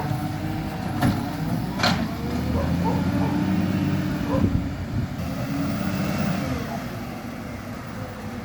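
Garbage truck at work: a steady mechanical whine that comes and goes in stretches over the running engine, with two sharp clanks about one and two seconds in.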